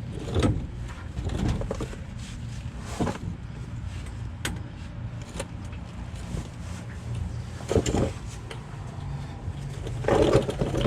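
Scattered sharp metal clicks and knocks of hand work on a drive shaft's universal joint, over a steady low hum.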